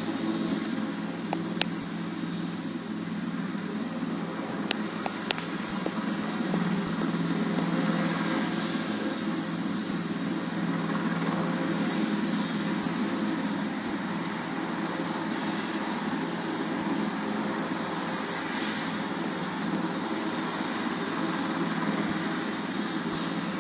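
Helicopter rotor and turbine engine noise, a steady heavy rumble as the helicopter comes in to land. A few sharp clicks sound about two and five seconds in.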